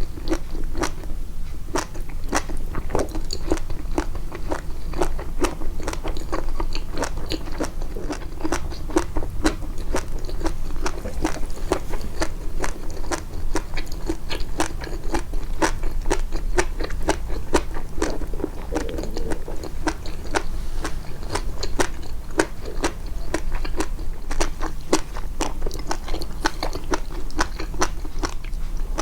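Close-miked chewing, amplified: a steady run of small, crisp crunching clicks, several a second, as food is bitten and chewed.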